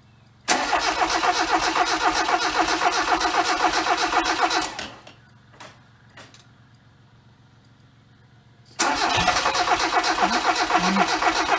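Ford Laser TX3's Mazda BP 1.8-litre twin-cam engine cranking on the starter motor in two bursts, about four seconds and then about three, without catching. It is a no-start from fuel starvation, which the owner puts down to stale fuel and a failing fuel pump.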